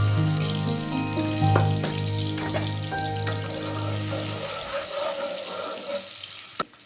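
Food sizzling as it fries in a pan, over soft background music. The music stops about two-thirds of the way through, the sizzle fades, and a single sharp click comes near the end.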